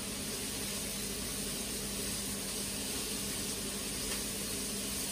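Onions and courgettes frying in a pan on the hob: a steady sizzling hiss, with a low steady hum underneath.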